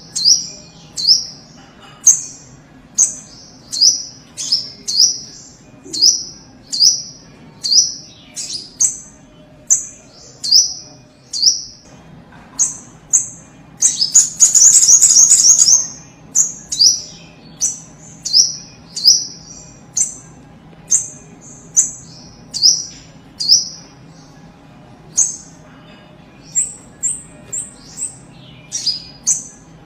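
A little spiderhunter (sogok ontong) calling over and over: sharp, high chirps about once a second, each dropping in pitch, with a quick, louder run of rapid notes about halfway through.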